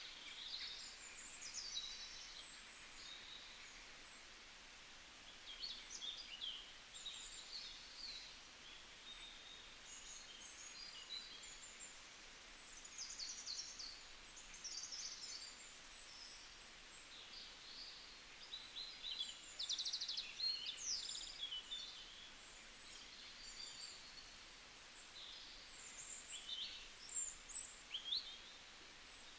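Small songbirds chirping and twittering, many short high calls overlapping and coming in clusters, louder around the middle and near the end, over a faint steady hiss of forest ambience.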